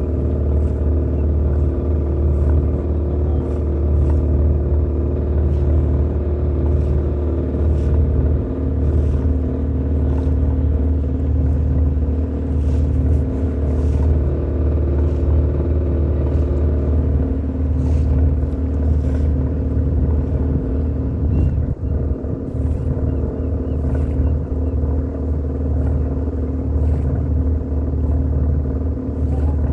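Boat engine running steadily under way, a low, even hum.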